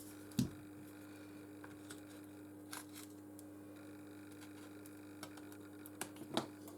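A few small clicks and taps from tools handling the phone during disassembly, with a short soft thump about half a second in and two clicks near the end, over a steady low electrical hum.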